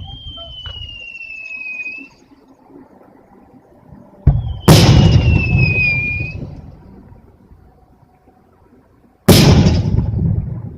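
Fireworks display: a high whistle falls slightly in pitch for about two seconds. A second whistle ends in a heavy boom about four and a half seconds in, with a long rumbling echo, and another loud boom comes near the end.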